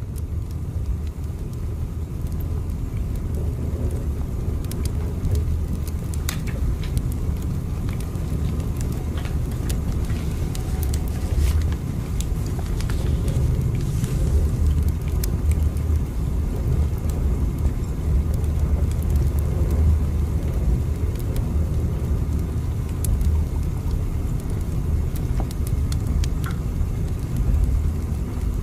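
Steady low rumble of a moving train, swelling slightly over the first few seconds, with scattered faint clicks and rattles.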